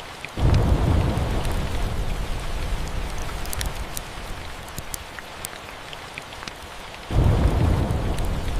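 Steady rain with two rolls of thunder: a sudden low rumble about half a second in that slowly fades, and a second one near the end. Scattered small sharp crackles sound over the rain throughout.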